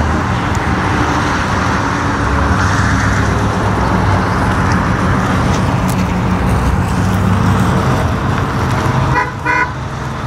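Cars driving slowly past with their engines running, a steady low drone. A brief high-pitched toot comes about nine seconds in.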